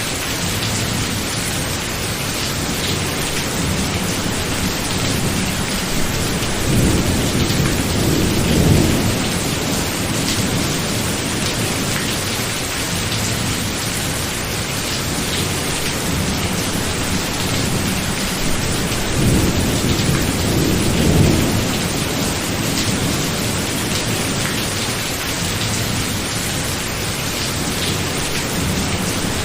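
Steady heavy rain with two low, rolling rumbles of thunder, one about seven seconds in and another about twenty seconds in.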